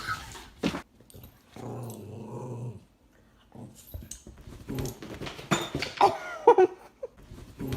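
A pet animal growling low, then giving a few higher, wavering whining calls about two-thirds of the way through.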